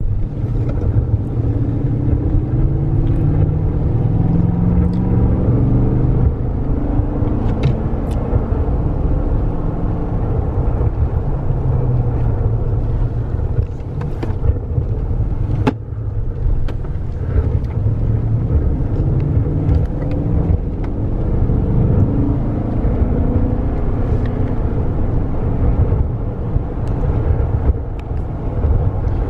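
Car driving along: steady engine and road noise, with the engine's pitch rising and falling now and then, and a few faint clicks and knocks.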